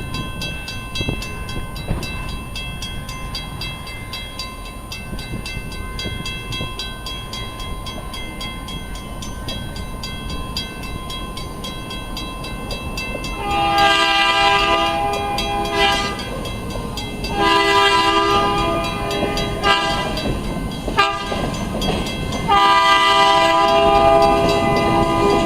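Locomotive horn sounding the grade-crossing signal, long, long, short, long, as the train approaches the street crossing, over a low rumble of the train. A steady high ringing runs through the first half, before the horn starts.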